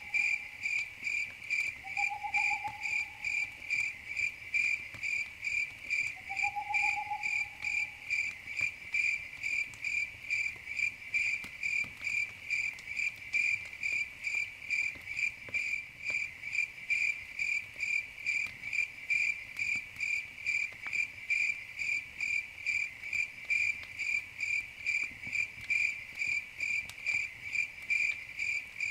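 Crickets chirping in a steady, even rhythm of about three chirps a second, with faint scattered crackles from a campfire. Three short, soft whistled notes come in the first seven seconds.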